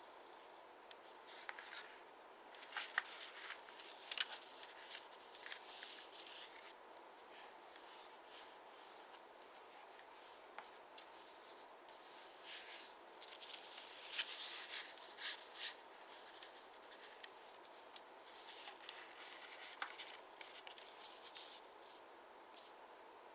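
Square origami paper being folded and creased by hand: faint, irregular rustles and crinkles with sharp little clicks, over a steady hiss.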